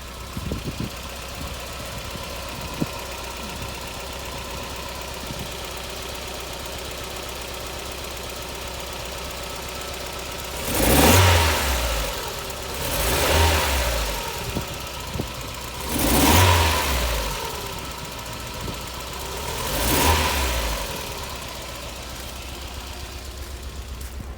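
Mazda MX-5's four-cylinder engine idling with a misfire, revved four times in short blips. The owner puts the misfire down to a head gasket problem.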